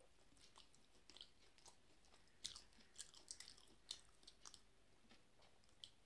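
A person chewing a mouthful of chicken: faint wet clicks and smacks, louder and more frequent in the middle.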